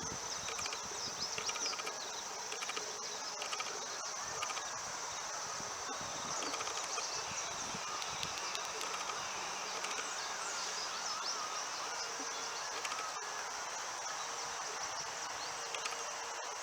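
Steady high-pitched chirring of an insect chorus, with a few faint ticks.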